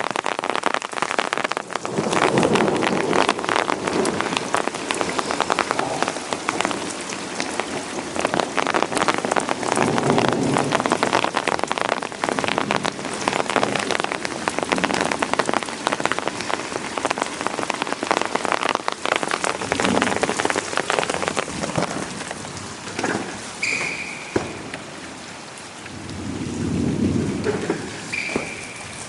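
Heavy rain pattering hard and steadily, easing somewhat in the last third. Low rumbles of thunder swell up three times: just after the start, around the middle and near the end.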